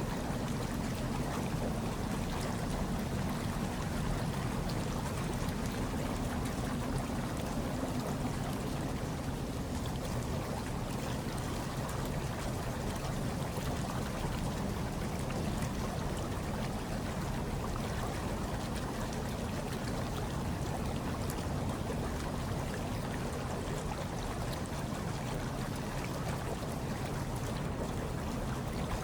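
Hot tub water churning and bubbling steadily over a low, even rumble.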